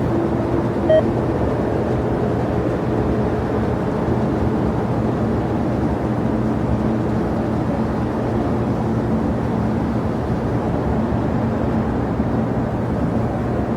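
Steady rumble of jet airliner engines at the airport, with a short electronic beep about a second in.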